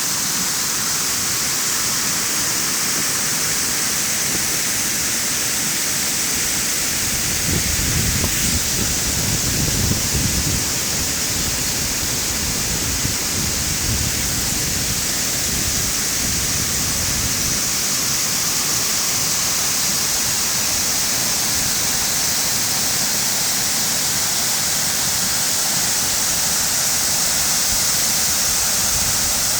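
Waterfall: a steady, loud rush of falling water. A low rumble swells briefly about a quarter of the way in.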